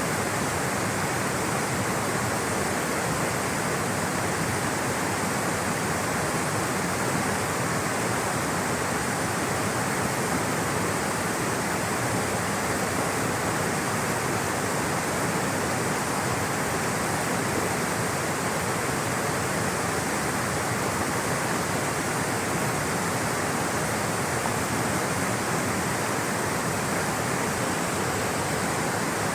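Water rushing steadily, a constant even roar with no breaks or distinct splashes.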